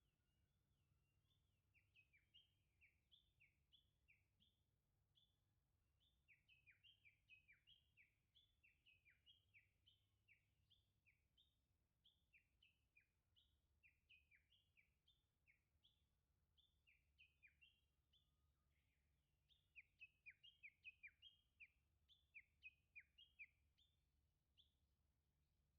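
Wild birds chirping faintly: quick runs of short, sharp, downward-slurred notes, overlapping in places and loudest near the end, over a faint low background rumble.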